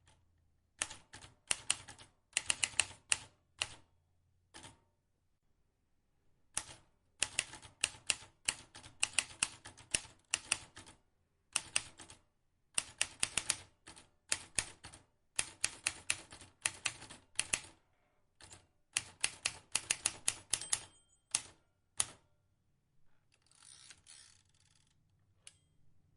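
Vintage manual typewriter being typed on: runs of sharp key strikes, several a second, broken by short pauses. A brief stretch of rasping noise follows near the end.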